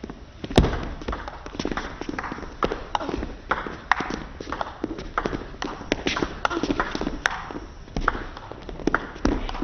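Table tennis ball clicking against rackets and table in quick, irregular succession, as in a rally.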